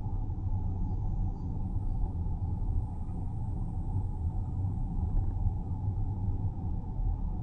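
A car driving along a road: a steady low rumble of tyres and engine. A faint, high, steady cicada drone comes in about two seconds in.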